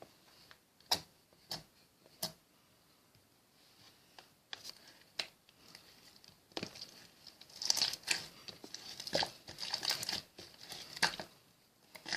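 Slime being played with by hand: a few sharp clicks and pops, then denser crinkly crackling from about seven seconds in.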